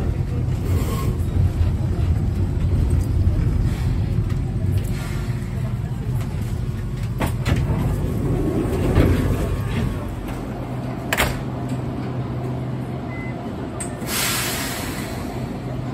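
Interior noise of an Enoden electric train: a low rumble while running, dropping about ten seconds in to a steady low hum. A sharp click follows shortly after, and a burst of compressed-air hiss near the end.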